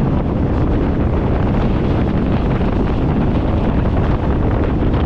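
Wind buffeting the microphone: a loud, steady low rumbling rush.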